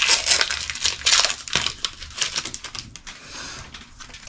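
Foil Pokémon booster pack wrapper being torn open and crinkled by hand: a dense run of crackling rustles, busiest in the first two seconds and thinning out after about three seconds.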